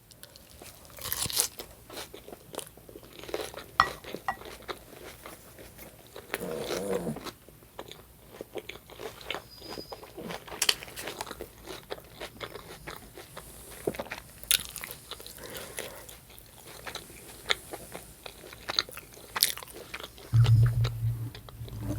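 Close-miked chewing and crunching of food during a mukbang, with many small crisp crunches and mouth clicks. A short low hum comes near the end.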